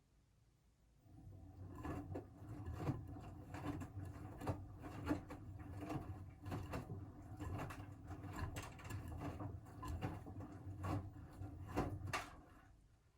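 Siemens WM14T490 front-loading washing machine turning its drum during the wash: a low motor hum with irregular knocks and clatter starts about a second in and stops near the end. The drum bearings are damaged, which the owner says is plainly audible.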